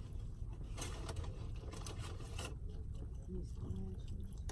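Food and its packaging being handled while eating, giving two short spells of scraping and rustling over a steady low hum, with a faint mumble near the end.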